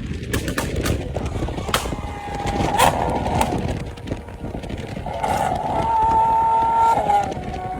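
A vehicle engine held at steady revs over a rough, rolling rumble, with a few sharp knocks.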